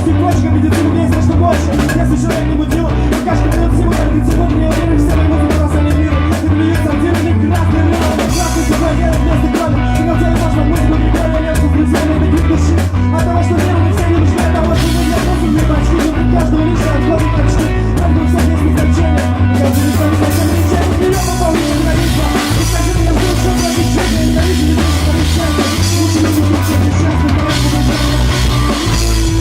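Rock band music with a full drum kit and bass guitar keeping a steady beat, and some singing.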